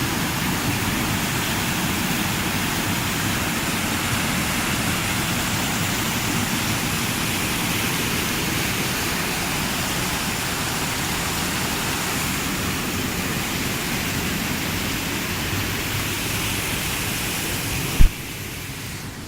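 River water rushing steadily, a dense even hiss of flowing water. Near the end a single sharp click, after which the rushing is quieter.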